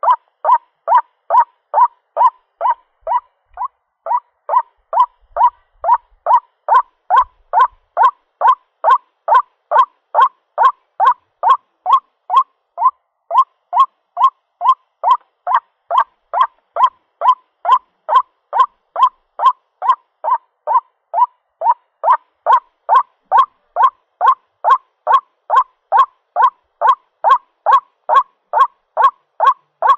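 White-breasted waterhen repeating its honking call, about two short notes a second in a steady run, played as a lure recording of the bird calling for a mate.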